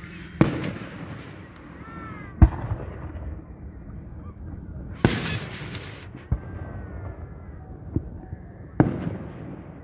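Aerial fireworks shells bursting: about six sharp booms at uneven intervals, with a quick burst of crackling around five seconds in.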